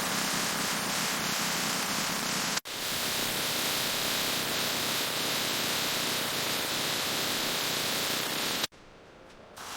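Steady hiss of a spraying or blasting tool, cut off sharply for an instant about two and a half seconds in and dropping away near the end.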